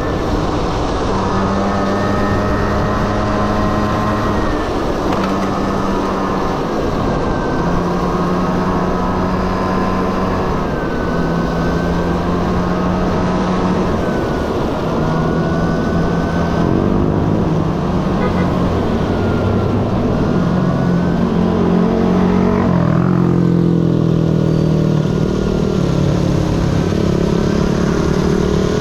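Honda Dio's 50cc single-cylinder two-stroke scooter engine running under way, its revs rising and falling repeatedly with the throttle, over a steady hiss of wind and road noise. Around two-thirds of the way through, another engine's note overlaps it for a few seconds.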